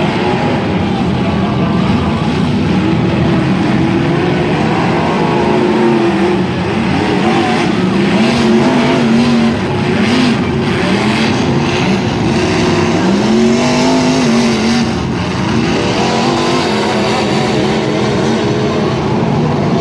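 Racing truck engines running hard, their pitch repeatedly rising and falling as they rev up and back off, with a few sharp knocks partway through.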